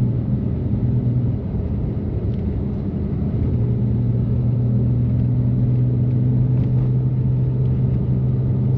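BMW F80 M3's twin-turbo inline-six, with catless downpipes and an always-open valved exhaust, droning steadily at low, even revs over a rumble of tyre and road noise. The drone fades for a couple of seconds about a second in, then comes back steady.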